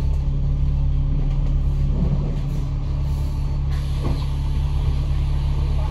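A bus engine running with a steady low drone under a hiss of road and running noise.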